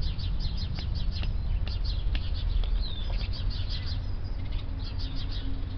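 Small birds chirping in quick runs of short high notes, with one down-slurred note about halfway through, over a steady low rumble.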